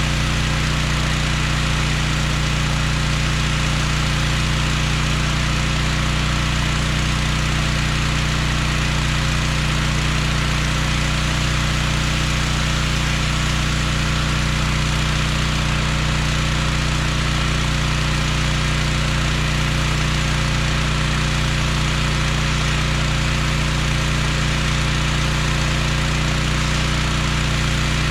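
Gas-engine pressure washer running steadily at a constant speed, with the even hiss of the water spray over the engine note.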